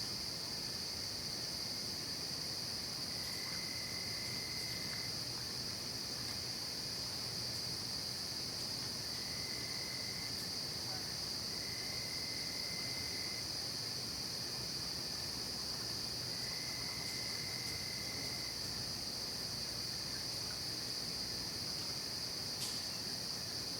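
Night-time insect chorus: a steady, high-pitched trilling that never lets up. A second, lower-pitched trill comes in four times, for a second or two each time.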